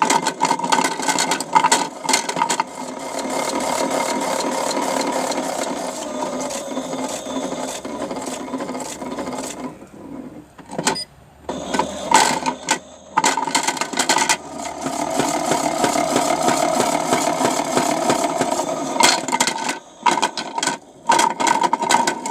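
Toy washing machine running with small rocks rattling around in its drum. There are bouts of rapid clattering and two longer stretches of steady whirring, with a short break near the middle.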